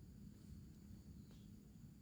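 Near silence: faint forest ambience with a steady high-pitched insect drone and a low rumble.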